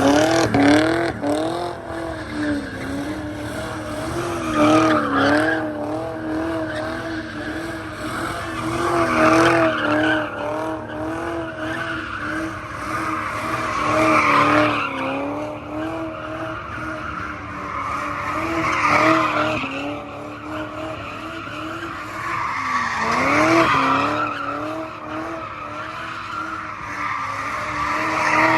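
BMW 540i drifting: the engine is held at high revs, its pitch wavering as the throttle is worked, while the rear tyres squeal in loud swells about every four to five seconds.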